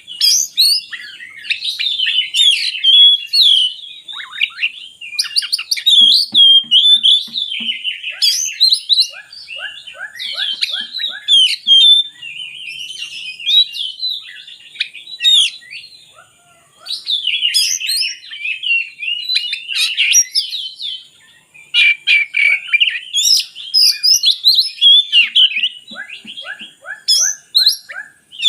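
Oriental magpie-robin (kacer) singing a long, varied song of whistled and chattering phrases, with several quick runs of evenly repeated notes and a couple of brief pauses.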